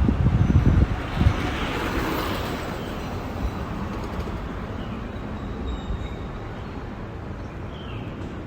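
Outdoor ambience on a slow bicycle ride: wind buffeting the microphone with low rumbling thumps in the first second or so, a broad hiss that swells and fades about two seconds in, and a few faint bird chirps.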